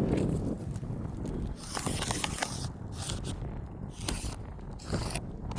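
A marker scratching over the gritty granule surface of an asphalt roof shingle in several short strokes, drawing a box around a damaged spot.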